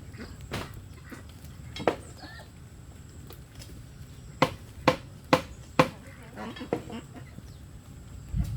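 Sharp knocks of building work: two single strikes, then four in quick succession about half a second apart. Chickens cluck between them.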